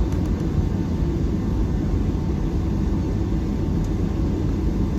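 Steady low rumble of cabin noise aboard a Boeing 757-300 airliner, with no distinct events.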